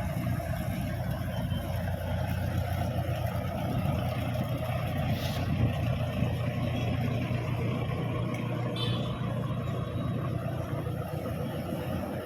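An engine running steadily, a continuous low rumble with no change in pace.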